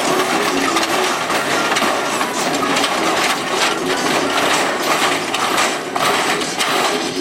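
Dense, loud clattering and banging from the hydraulic suspension of a Chevrolet S-10 dancing pickup truck as it is bounced and tipped.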